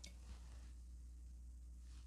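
Near silence: a steady low room hum, with one faint click at the very start.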